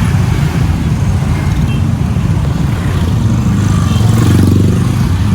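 Motor vehicle engine and road noise, steady and loud, with an engine note swelling briefly about four seconds in.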